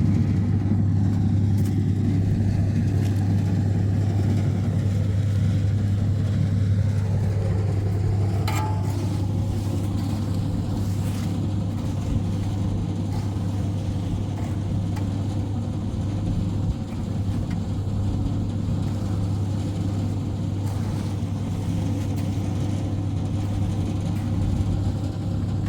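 An engine running steadily with a deep hum. A tone glides downward in pitch about a quarter of the way in, and there is a single sharp click shortly after.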